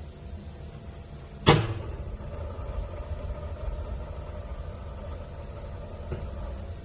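A single sharp clank about a second and a half in, over a steady low rumble. A faint tone rings on after it, and a light click comes near the end.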